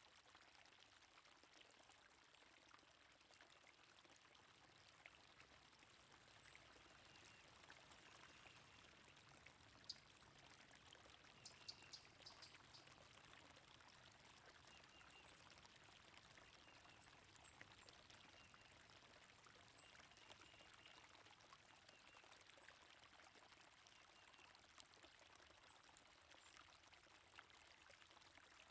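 Faint, steady running water of a stream, with scattered short, high bird chirps over it.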